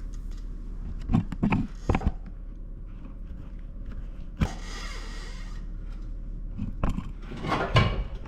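Hand tools and metal suspension parts clanking in a few short knocks while the sway bar is unbolted from the front lower control arm, with a brief rasping scrape about halfway through, over a steady low hum.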